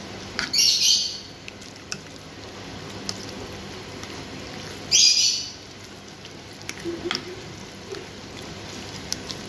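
A bird calling twice, a short high chirping burst about half a second in and another about five seconds in, over a steady faint background hiss. A few light clicks, as of a spoon touching a plate, fall between the calls.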